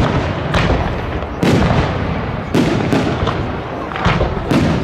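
Fireworks display: aerial shells bursting in a quick series of loud bangs, about one a second, over a continuous rumble.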